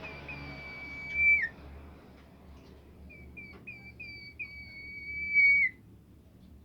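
Songbird known locally as bimoli singing two whistled phrases. Each is a few short notes leading into a long, steady high whistle that drops sharply at the end. The first ends about a second and a half in, and the second runs from about three seconds to nearly six.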